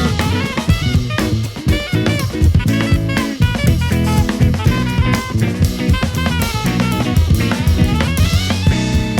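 Pop-funk jazz octet playing live. The drum kit's kick and snare drive a busy beat under electric bass, with horn and keyboard lines above.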